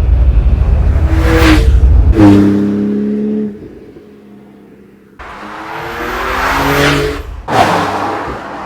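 Porsche 911 Turbo S twin-turbo flat-six engine in cut-together driving shots: a heavy low rumble that dies away over the first few seconds, then, after a sudden cut about five seconds in, the engine note swells with its pitch gliding, like a car passing by.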